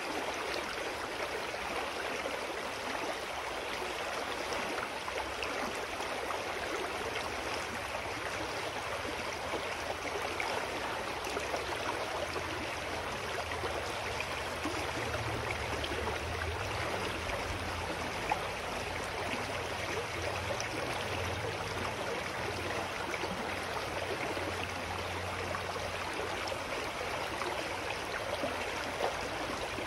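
A clear mountain stream running steadily over rocks, an even rushing and babbling of water. A faint low rumble joins underneath about halfway through.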